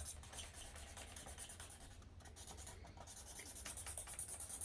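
Felt-tip markers coloring on paper: quick back-and-forth scratchy strokes, thinning out briefly around the middle before picking up again.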